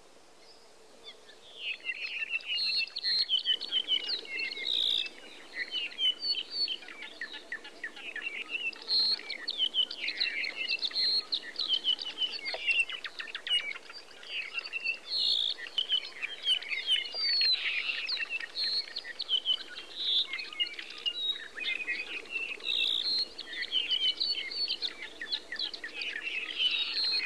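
Many birds chirping and singing together in a dense chorus of short, high calls, starting about a second and a half in.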